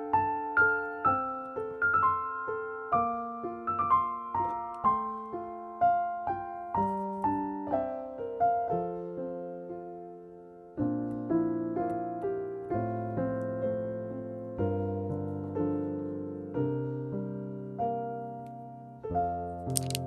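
Gentle background piano music: a melody of single notes, then slower held chords from about halfway through.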